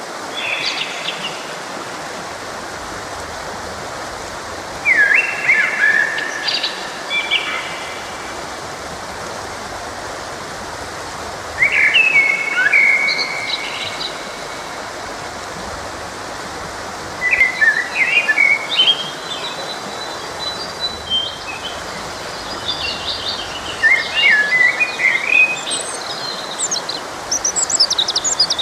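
Songbirds singing in short bursts of chirps and trills every few seconds, over the steady rush of a forest stream.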